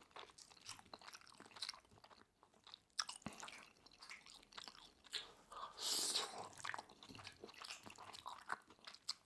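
Close-miked chewing of a mouthful of sukiyaki beef and rice, faint, with soft wet mouth clicks and smacks and a louder smack about six seconds in.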